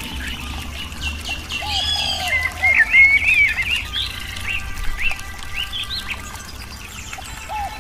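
Several birds chirping and calling, a busy run of quick rising and falling chirps with a few lower, arching calls, over a low steady rumble.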